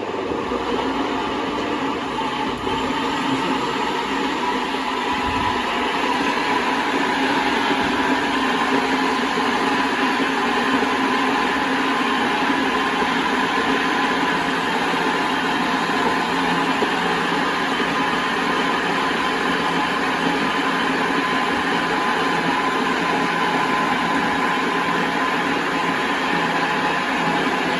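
Electric blender running continuously, puréeing hot slow-roasted tomatoes into a sauce: a steady motor hum that grows a little louder over the first few seconds, then holds even.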